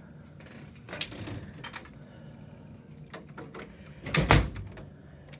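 A few light clicks and knocks, then one heavy thump about four seconds in.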